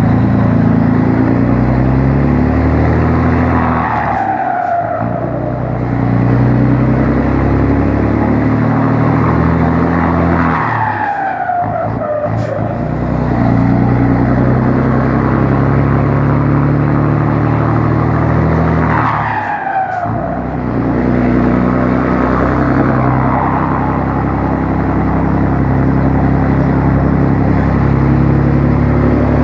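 Scania 112HS truck's turbocharged straight-six diesel revved again and again, its turbo fitted with a pente (intake comb) so that it whistles. About every seven or eight seconds the revs drop and the turbo whistle falls sharply in pitch as the turbo spools down.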